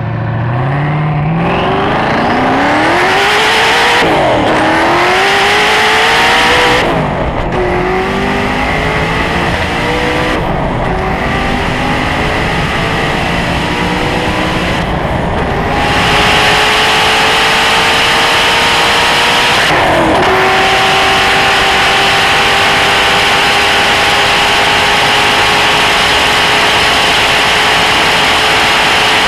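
Supercar engine accelerating hard through the gears. Its pitch climbs and drops sharply at each of five upshifts, then keeps rising slowly in a long pull in top gear.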